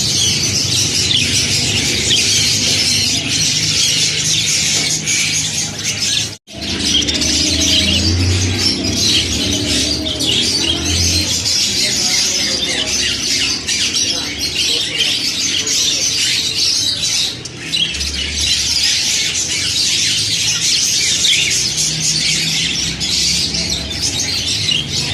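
A flock of yellow budgerigars chattering and squawking continuously in a dense, high-pitched warble, broken by a momentary gap about six seconds in.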